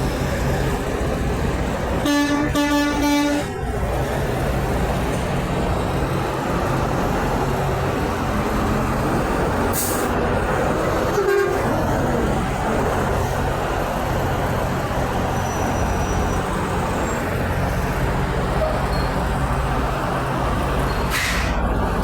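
Semi truck horn sounding two short blasts about two seconds in, over a steady low rumble of truck engines and traffic. A brief, fainter toot follows near the middle.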